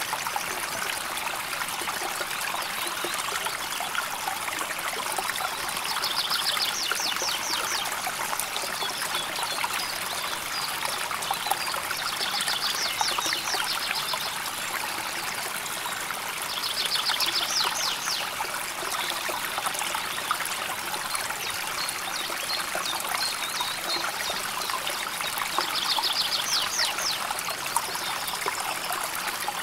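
River water flowing and trickling steadily, an even rushing. A short, high trill of rapid repeated notes rises above it four times, each lasting a second or two.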